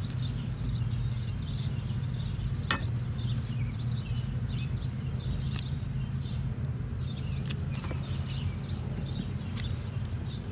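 Honeybees from an opened hive, a steady low buzzing hum, with birds chirping above it and a few sharp clicks from handling the hive.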